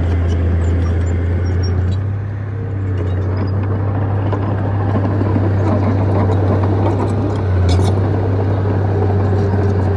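Bulldozer's diesel engine running with a deep steady drone. It eases off briefly about two seconds in and swells again near eight seconds, with light clicks over it.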